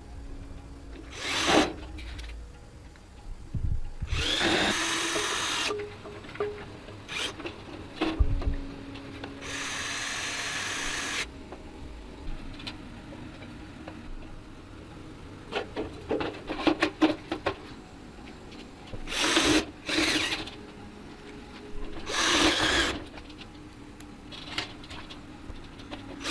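Workshop tool work on a motorcycle: a power tool runs in several short bursts of a second or two, with clicks and knocks of handled tools and parts between them.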